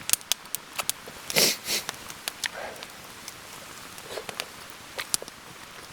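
Eating close to the microphone: scattered light clicks of utensils against a pan, with a short sniff about a second and a half in.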